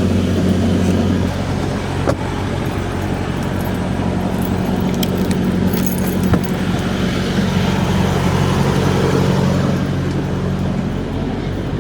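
Peterbilt semi truck's diesel engine running with a steady low hum, with light rattles and a couple of sharp clicks.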